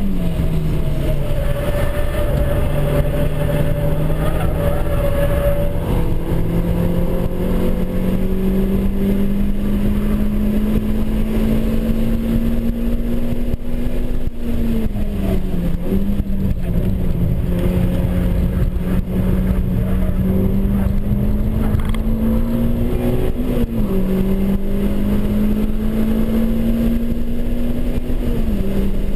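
Renaultsport Clio Cup 200's naturally aspirated four-cylinder engine pulling hard at high speed, heard from inside the cabin over road and wind rumble. Its pitch climbs slowly through each gear and steps down sharply at the shifts: right at the start, around a third of the way in with a brief dip and recovery, about four-fifths through, and again near the end.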